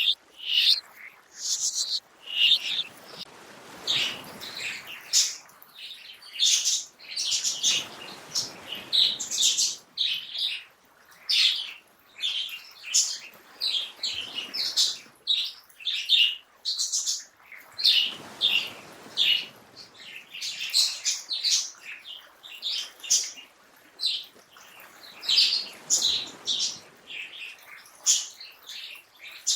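Songbirds chirping and calling, a dense run of short, high chirps with no pause. Beneath them a soft rushing noise swells and fades several times.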